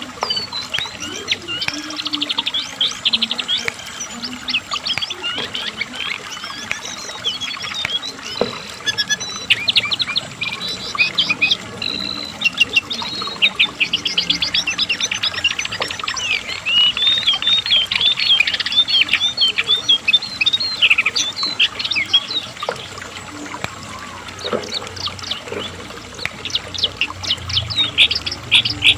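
Cingcoang (jongkangan coklat) singing in full, continuous song: fast, high-pitched chattering trills and warbled phrases, one after another without pause.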